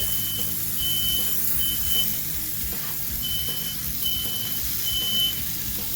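Smoke alarm sounding, a high beep repeated in groups of three, set off by smoke from the griddle. Burgers sizzle on the griddle underneath.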